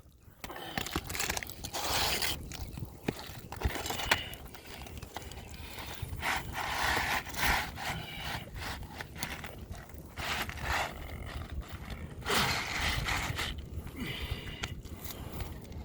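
Asphalt roof shingles being pried up and worked loose, with bursts of scraping and crackling as the sealed tabs tear free and sharp clicks and knocks in between.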